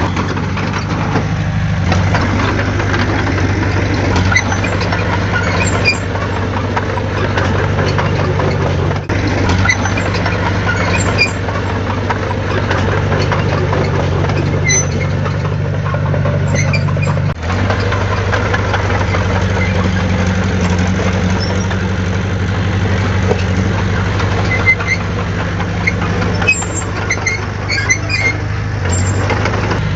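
Diesel engine of heavy earthmoving machinery running steadily, its note shifting a little every few seconds.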